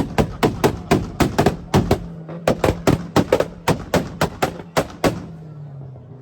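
Modified car's exhaust firing a rapid, uneven string of loud gunshot-like bangs, about four to five a second, over a held engine note. The bangs stop about five seconds in, leaving the engine note sliding down and back up.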